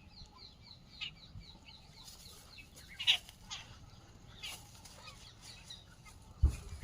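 Birds calling: a quick run of short, falling chirps in the first second, then scattered single sharper calls, with a low thump near the end.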